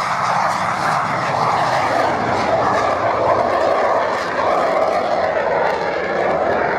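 Fixed-wing display aircraft's engine, a steady drone.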